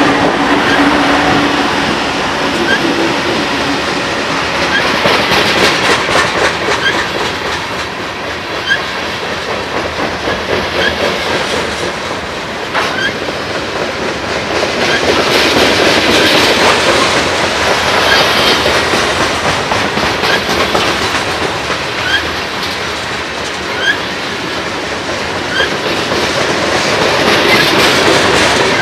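A train rolling past on the mainline: a steady rumble of wheels on rail that swells and eases, with sharp clicks of wheels over rail joints now and then and faint short squeals from the wheels.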